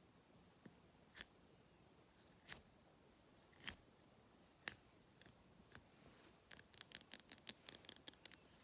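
ASMR mouth sounds: single sharp clicks about a second apart, then a quick run of clicks, several a second, over the last two seconds.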